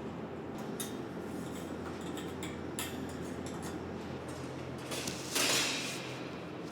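Deburring of laser-cut metal fire-pit parts: light clinks and taps of sheet metal being handled over a steady low machine hum, with one short hissing abrasive scrape about five seconds in, the loudest sound here.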